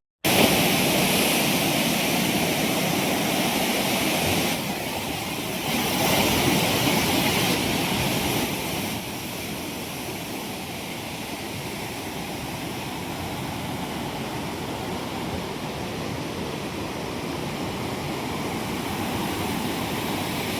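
Flooded river water rushing in a steady wash of noise, starting abruptly and easing off slightly about nine seconds in.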